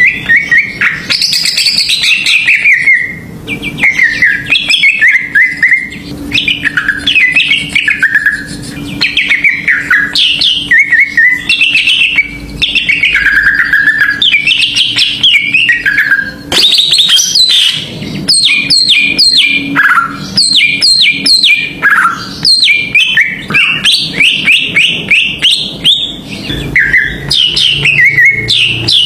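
Cucak ijo (greater green leafbird) in a fierce, nonstop song: a dense run of short whistled slurs, rising and falling, mixed with quick chattering phrases. It is the kind of 'ngamuk' (raging) song used as a lure to provoke other cucak ijo into singing.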